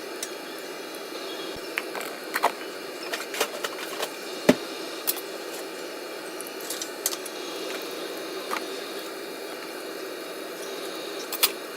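Scattered light clicks and knocks of kitchenware being handled, over a steady hiss; the sharpest knock comes about four and a half seconds in.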